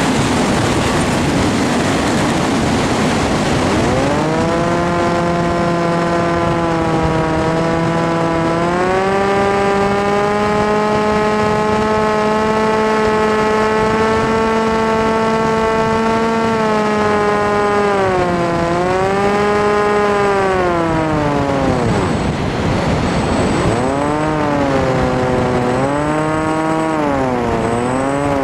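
Electric motor and propeller of an FPV aircraft whining, its pitch following the throttle: a rushing noise at first, then a whine that climbs about four seconds in, holds with a small step up, drops around 17 and 22 seconds and rises and dips several times near the end.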